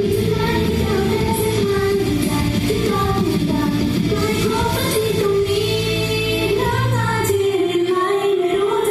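Idol pop song with female vocals singing over the backing music. The bass drops away about seven seconds in.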